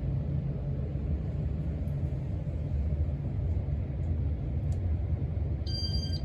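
Casablanca Stealth ceiling fan running steadily at speed 3, a constant low hum and rumble. A short, high electronic beep sounds near the end.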